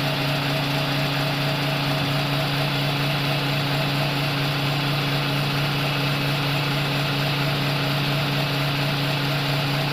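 Tipper truck's diesel engine running at a steady speed, its pitch and loudness unchanging throughout.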